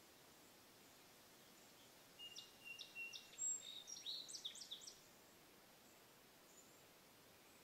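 A small songbird singing one short phrase of quick high chirps and trills, starting about two seconds in and lasting about three seconds.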